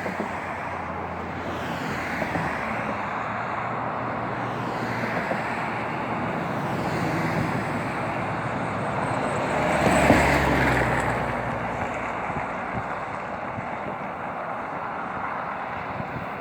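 Road traffic noise, with a vehicle passing close about ten seconds in, getting louder and then fading away.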